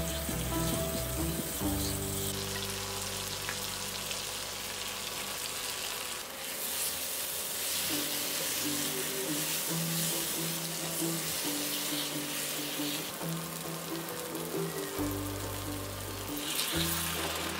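Eggplant in a spiced oil sauce sizzling in a stainless steel frying pan as it is stirred with a silicone spatula, with background music underneath.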